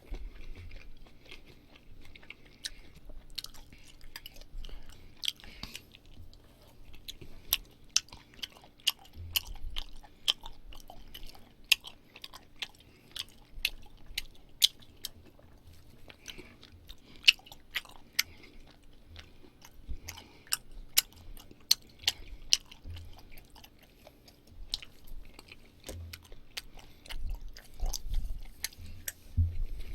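Close-miked chewing and biting of grilled pork belly and duck, with many sharp, irregular wet mouth clicks and smacks.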